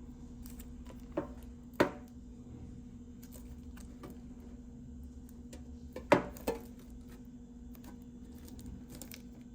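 A metal collector's tin being handled and opened, with a few sharp knocks and many small clicks and rattles over a steady low hum.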